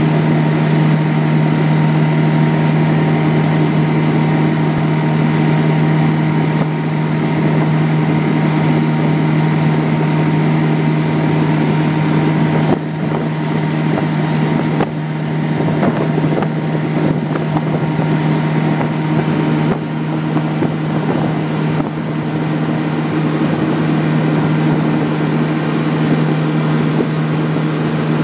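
Honda BF90 VTEC four-stroke outboard running steadily at full throttle, pushing the boat at speed, with wind and rushing water over it. The level dips briefly a few times partway through.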